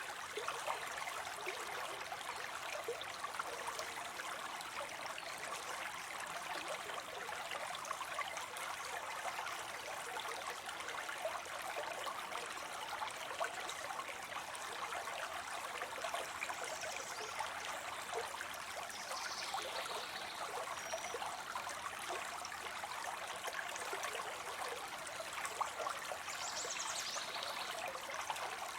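Water spilling into a pond: a steady, even splashing and trickling from a small fall of water.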